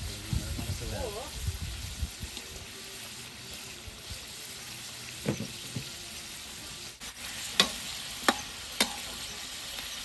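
Food frying in a hot cooking pan, a steady sizzle as it is stirred, with a few sharp knocks: one about five seconds in, then three close together in the second half.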